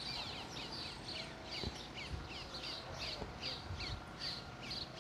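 A bird calling over and over: a steady run of short, high, falling notes, about three a second.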